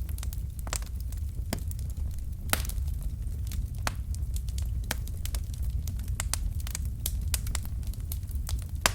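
Wood fire burning in a fireplace: irregular crackles and sharp pops of burning logs over the steady low rumble of the flames, with a louder pop about two and a half seconds in and another near the end.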